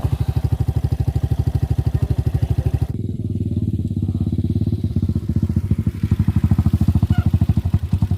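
Single-cylinder engine of a 150cc Chinese dirt bike running at low, steady revs with an even, rapid putting. About three seconds in, the sound shifts abruptly to a lower, fuller note.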